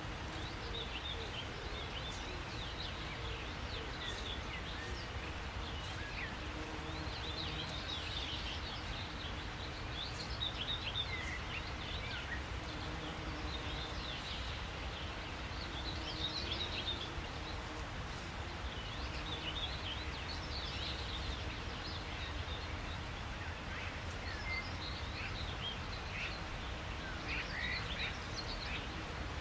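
Several small birds chirping and trilling in short, overlapping bursts over a steady low outdoor rumble.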